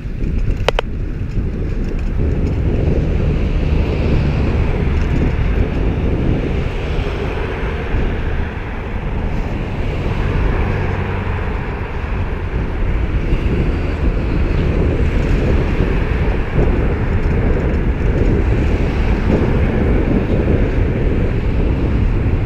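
Wind buffeting the microphone of a moving bicycle, a loud, steady rumble, with motor traffic going by on the road. A short sharp click comes just under a second in.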